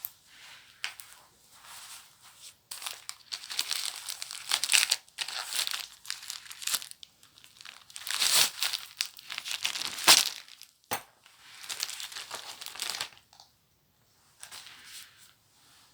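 Paper book packaging being torn open and crumpled by hand, in irregular bursts of rustling that are loudest about eight to ten seconds in, with a sharp snap near eleven seconds.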